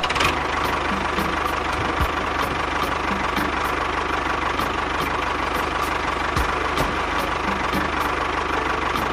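A small engine or motor running steadily, with a fast low rattle and a faint constant whine.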